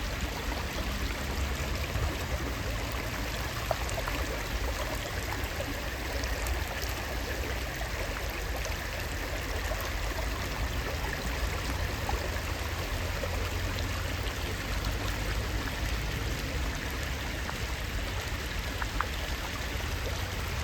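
Rain dripping onto a lake's surface: a steady watery hiss with scattered small drip ticks and a low rumble underneath.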